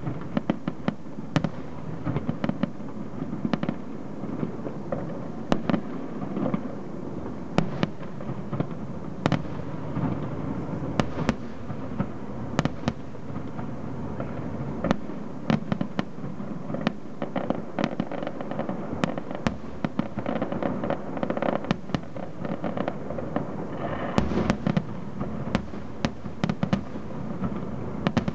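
Aerial firework shells bursting in a large display: frequent sharp bangs over a continuous din of overlapping bursts, growing busier near the end.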